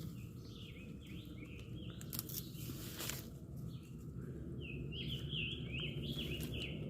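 A songbird singing two phrases of short, repeated, downward-slurred notes, the second phrase starting a little past the middle, over a low outdoor rumble with a couple of faint clicks in between.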